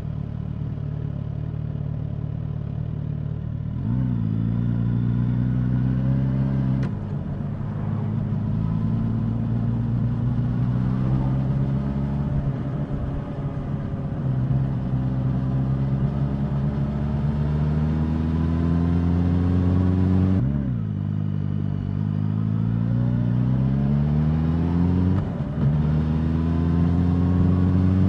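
Suzuki GSX-S1000's inline-four engine and exhaust under way. The note holds steady for long stretches, climbs steadily in pitch as the bike accelerates, and drops sharply at gear changes, twice in the second half.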